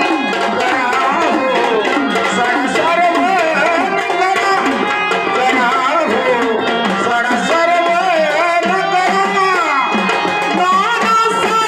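Dholki drumming in a fast folk rhythm, the bass head bending down in pitch stroke after stroke, with melodic accompaniment held underneath.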